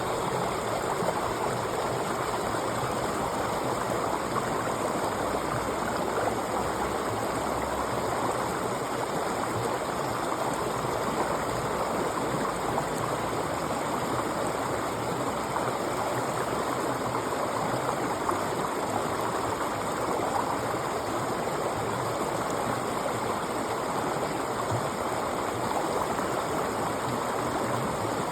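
River water flowing over rocks: a steady rushing and babbling that holds at the same level throughout.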